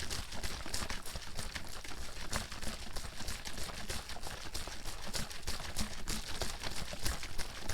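Water sloshing and slapping inside a bottle being shaken continuously, a dense, irregular run of splashes and knocks with no pause.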